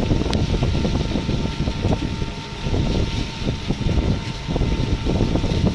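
Battery e-rickshaw (toto) driving along, heard from on board: a steady rumble of the ride with dense rattling.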